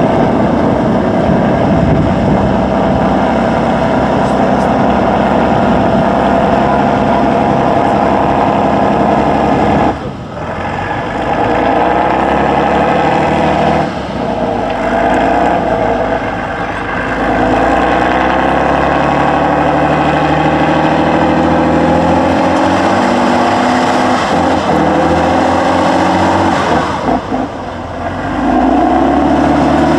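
Tatra 813 8x8 truck's air-cooled V12 diesel working under load off-road, its note rising and falling as it revs. It briefly drops back about ten, fourteen and twenty-seven seconds in before pulling again.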